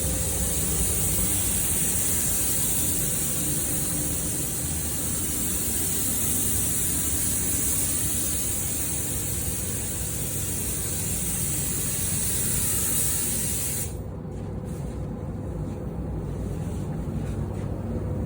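Automotive paint spray gun hissing steadily with compressed air, cutting off abruptly about fourteen seconds in, over a low steady rumble.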